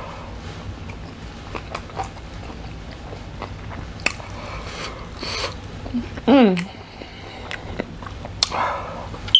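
Close-up chewing and small wet mouth clicks of a person eating spicy food. About six seconds in comes a short moan that falls in pitch, a reaction to the heat in her mouth.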